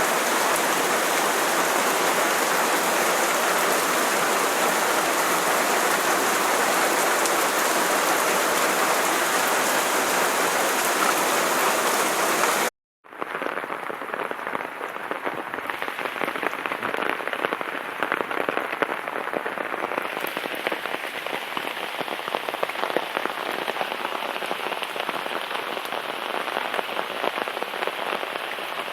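Heavy rain falling steadily on a garden. About halfway through it cuts out for an instant and comes back quieter and duller, with separate drops heard striking.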